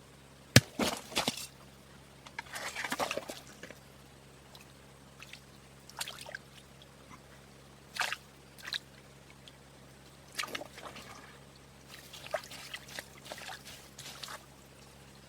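A sharp knock about half a second in, then irregular bursts of handling noise, some with a wet, sloshing quality.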